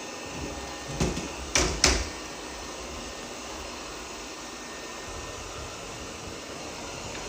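Three short knocks in quick succession about a second in, the last the loudest, over a steady background hiss.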